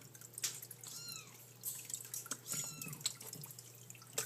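African grey parrot imitating a kitten's meow, two arching calls, over small water drips and splashes.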